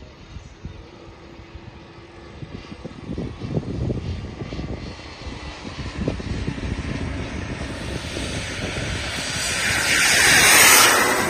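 Twin Kingtech K45TPG4+ model turboprop engines of a radio-controlled OV-10 Bronco flying past: a whooshing whine that builds steadily, peaks loudly about ten seconds in, then begins to fade.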